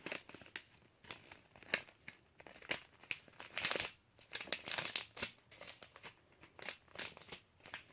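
Sheet of paper being handled and folded by hand: irregular crinkling rustles and creasing swipes.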